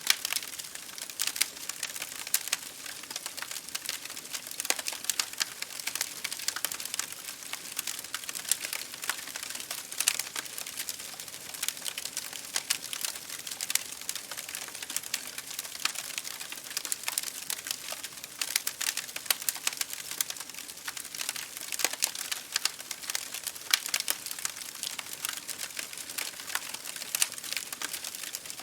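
Wood fire crackling in a fireplace, a dense run of small pops and snaps, over a steady hiss of rain on a window pane.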